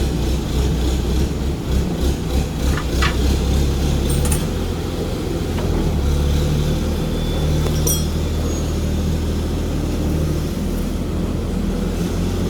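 Steady low machinery hum, with a few short sharp clicks about three, four and eight seconds in.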